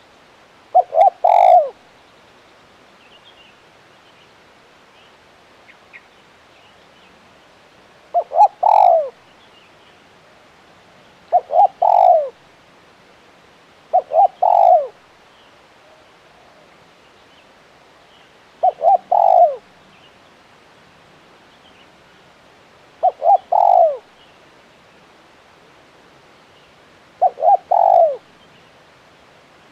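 Male spotted dove cooing: seven phrases spaced a few seconds apart, each a quick run of short notes ending in a longer, falling coo.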